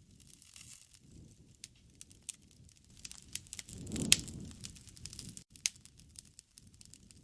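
Wood fire burning, with irregular sharp crackles and pops and a low rush of flame that swells about four seconds in, where the loudest pop comes.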